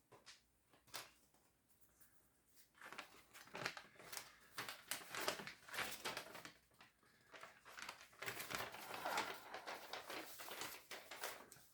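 Paper instruction sheets rustling and crinkling as they are unfolded and handled, in irregular crackles that start about three seconds in.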